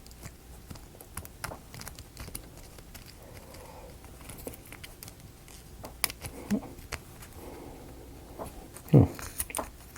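Scattered light clicks and taps of small laser-cut wooden kit pieces being handled and fitted together, with a short low thump about nine seconds in.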